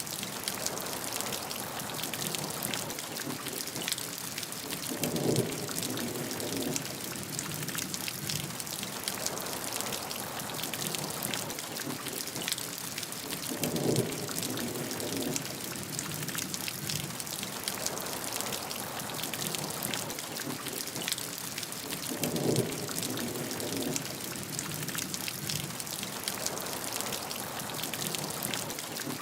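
Steady heavy rain with a dense patter of drops hitting a surface. A low rumble swells and fades three times, about eight seconds apart.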